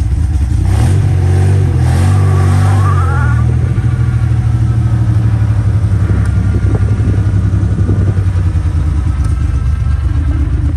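Citroën SM's Maserati V6 engine running: revved up briefly about a second in, then dropping back to a steady, evenly pulsing idle.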